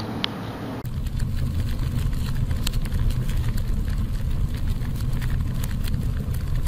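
A vehicle engine idling: a steady low rumble with light ticking, starting abruptly about a second in.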